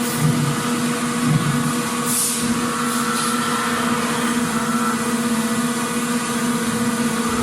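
Factory machinery running steadily: a constant hum with a steady low drone and higher whine over a noisy floor, and a brief hiss about two seconds in.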